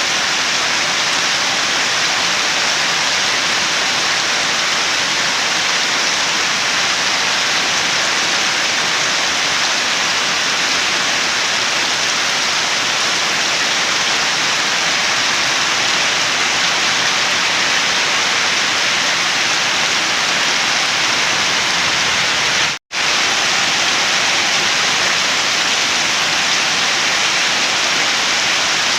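Steady heavy rain falling, an even hiss-like wash of drops. It cuts out for an instant about three-quarters of the way through, then carries on unchanged.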